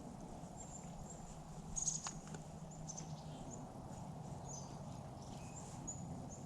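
Small birds at a winter bird feeder giving short, thin, high-pitched chirps scattered all through, with a couple of soft clicks about two seconds in.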